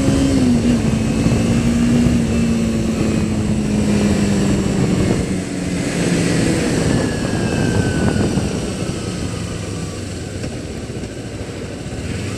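Carbureted 2009 Kawasaki Ninja 250R's parallel-twin engine running on the move over wind rush, its note holding steady and then slowly falling as the bike slows. It gets somewhat quieter near the end.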